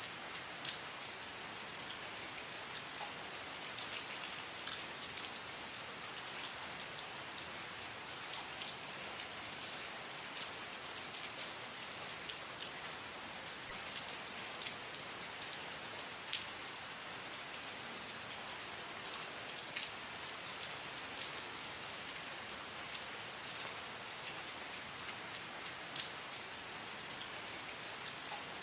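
Steady rain falling, with individual drops ticking sharply on a surface here and there over the even hiss.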